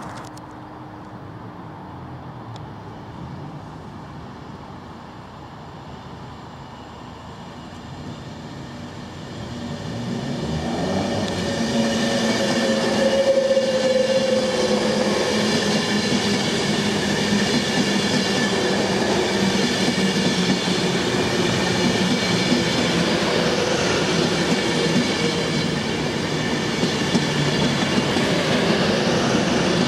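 Virgin Trains Class 390 Pendolino electric train passing through the station. For the first third it is a faint distant rumble, then about ten seconds in the noise of the train rises and stays loud and steady, with wheel noise and a thin electric whine, and a brief tone that dips slightly in pitch about half way through.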